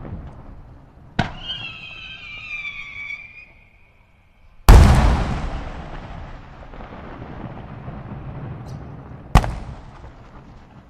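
Aerial firework salutes and shells bursting. A sharp bang about a second in is followed by a wavering, falling whistle. The loudest bang comes near the middle with a long rolling echo, and another sharp bang follows near the end.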